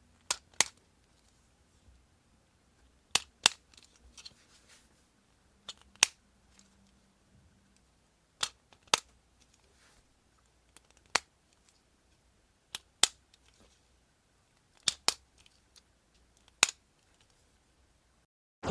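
Sharp plastic clicks, mostly in close pairs, every two to three seconds: small hard plastic toy parts being handled and snapped.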